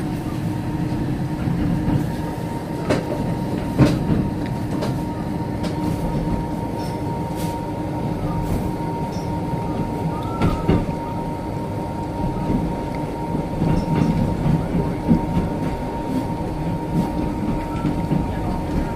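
Steady running rumble of a moving passenger train heard from inside the carriage, with occasional sharp clicks from the wheels over rail joints and a steady high hum through it.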